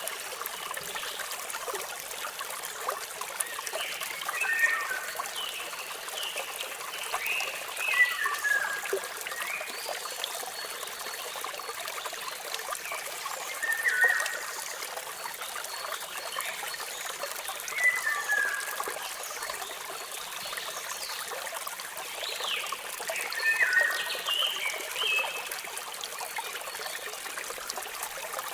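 Steady hiss of running water, with small birds chirping over it in short bouts every few seconds. The quick chirps rise or fall in pitch and are the loudest sounds.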